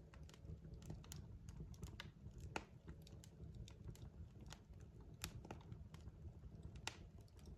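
Wood fire crackling in a fireplace: irregular sharp pops and snaps from the burning logs, a few louder than the rest, over a low steady rumble.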